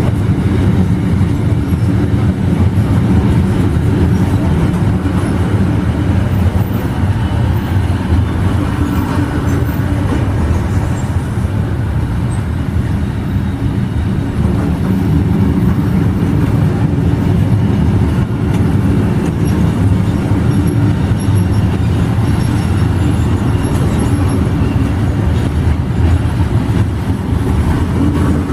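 A train running past, a steady low rumble.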